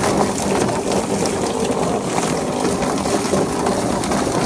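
Chicken plucking machine running with two scalded chickens and water inside: a steady motor hum under continuous splashing and churning water as the birds are tumbled and their loosened feathers stripped.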